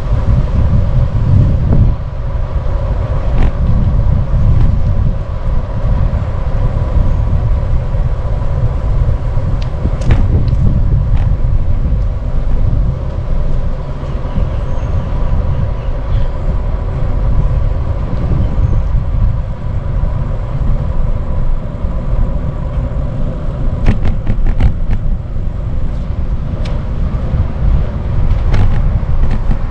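Wind rumbling on the microphone while cycling along a road, with car traffic going by. A few brief clicks about ten seconds in and again near the end.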